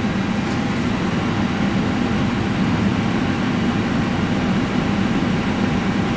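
Steady hum and rush of air on a parked airliner's flight deck with the auxiliary power unit (APU) running, a constant low drone with no change.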